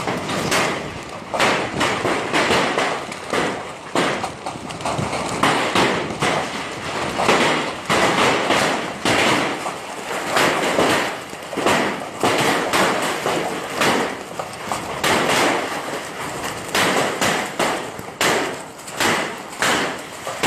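Hailstones pelting down: a dense, irregular clatter of hard impacts that swells and eases in waves.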